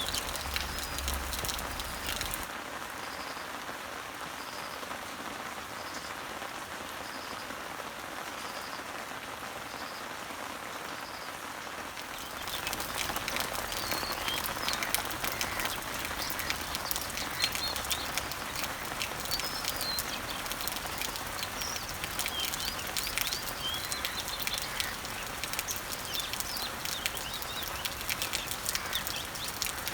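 Rain falling on garden leaves and trees, a steady patter of drops, with birds chirping in the background. About twelve seconds in the rain grows louder, with many distinct drop ticks, and the bird chirps become more frequent; before that a faint high note repeats about once a second.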